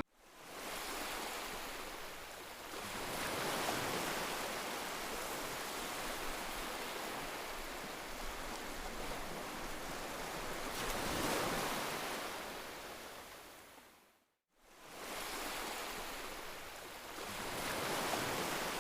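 Sea waves washing onto a sandy beach, surging and fading about every seven seconds, with a brief silent cut about two-thirds of the way through.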